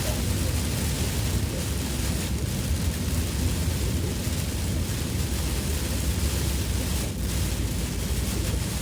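Loud monsoon rain falling on a moving car, heard from inside the cabin, over a steady low rumble of tyres and engine.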